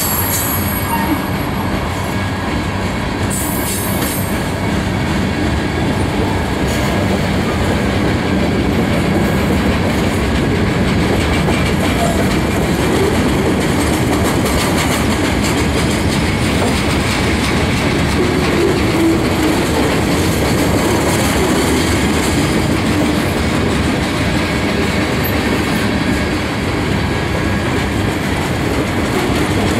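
Freight cars (covered hoppers and boxcars) rolling past: a steady rumble of steel wheels on rail with clickety-clack over the rail joints, and brief high-pitched wheel squeals in the first few seconds.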